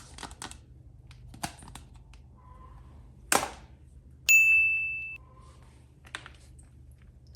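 Small clicks and taps of plastic toys and packaging being handled, with a brief swish just past the middle. Then a single high ding sounds once, fading away over about a second.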